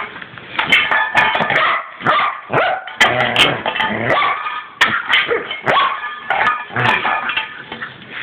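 Border collie barking over and over in short bursts, demanding his dinner, with sharp clicks between some of the barks.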